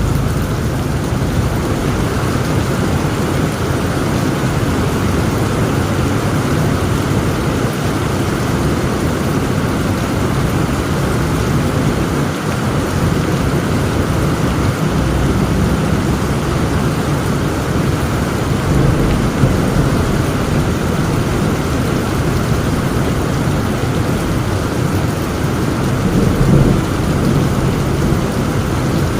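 Heavy rain falling steadily with a continuous low rumble of thunder beneath it. The rumble swells slightly twice, about two-thirds of the way through and again a few seconds before the end.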